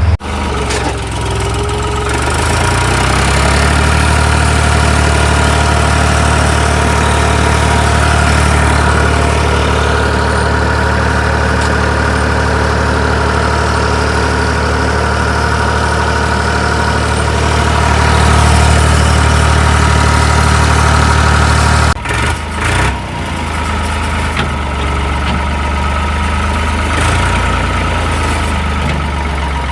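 Bulldozer's diesel engine running steadily, its pitch rising over the first few seconds. The sound breaks off abruptly at the very start and again about three-quarters of the way through.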